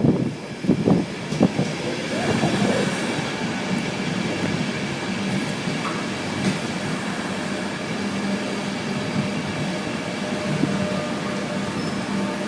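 Express passenger train running into the station: a steady rumble of wheels on rail with a continuous low hum.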